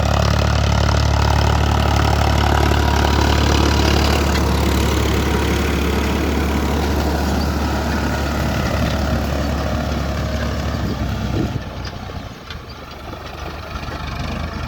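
Farmtrac 60 EPI tractor's diesel engine running steadily while pulling a 24-disc harrow. About eleven and a half seconds in, the engine note drops and grows quieter.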